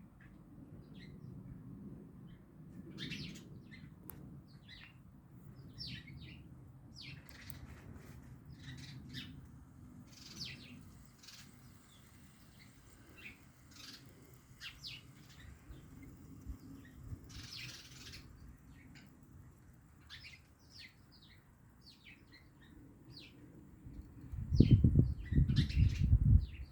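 Small birds chirping in many short calls, over a low rumble that swells loudly near the end.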